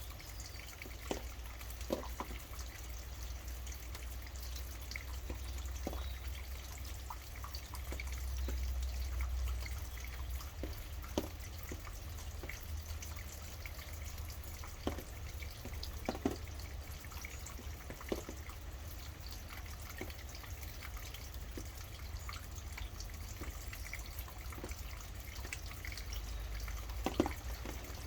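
Rain falling, with large single drops striking close by every second or so over a steady low rumble.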